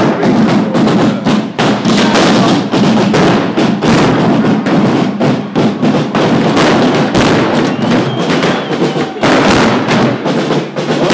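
Loud drumming, with many irregular sharp bangs.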